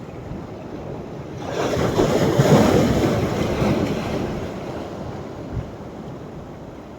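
Sea waves on a beach at rising tide: a wave breaks about one and a half seconds in, its wash swelling and then fading over the next few seconds, over a low steady rumble of surf.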